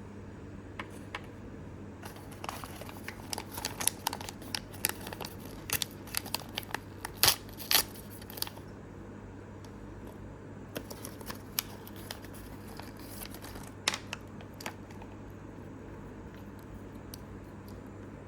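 Small plastic blind-bag packaging crinkling and tearing as it is opened, in two spells of crackly snaps: a busy one with the loudest snaps in the middle, then a sparser one.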